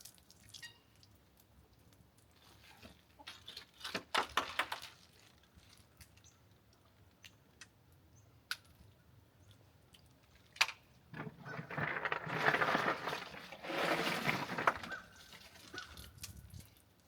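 Dressed chickens being handled in an ice-water chest: water sloshing and splashing, with scattered knocks and clicks and a longer stretch of sloshing about 11 to 15 seconds in.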